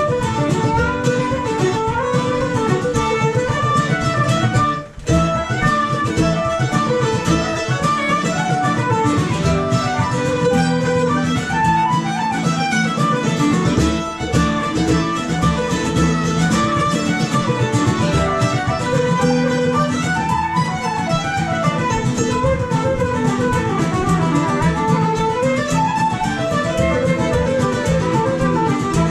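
Red Diamond mandolin playing a Celtic tune with other acoustic string instruments, a steady stream of plucked melody notes over the band. The music drops out for a moment about five seconds in, then carries on.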